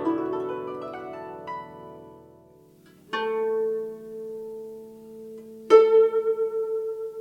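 Guzheng solo: a cluster of plucked notes dies away, then after a brief pause single notes are plucked and left ringing, one with a quick wavering pitch.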